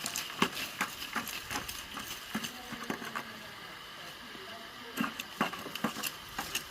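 Scattered, irregular knocks and taps, sparse for a couple of seconds in the middle and bunched again near the end, with faint voices underneath.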